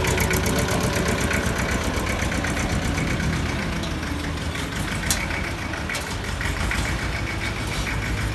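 Iseki TS1610 compact tractor's diesel engine idling steadily, with a single sharp click about five seconds in.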